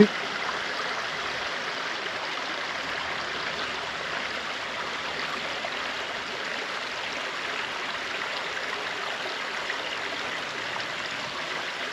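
Steady rush of a creek flowing over rocks, a continuous even water noise with no change.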